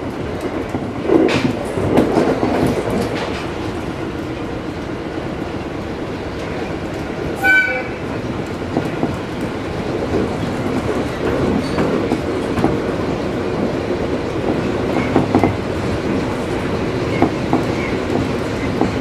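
Train running along the line, heard from the driver's cab: a steady running rumble with wheel clicks and knocks over the rail joints. About seven and a half seconds in, the train's horn sounds once, briefly.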